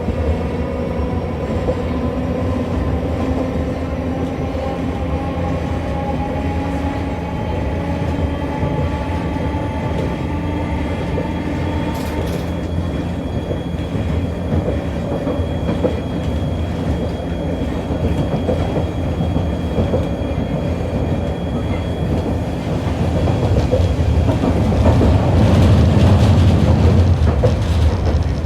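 Hiroshima Electric Railway 650-type tram running, its traction motors whining with a steadily rising pitch as it gathers speed, then the whine stops with a click about twelve seconds in and the wheels rumble on along the rails, louder near the end.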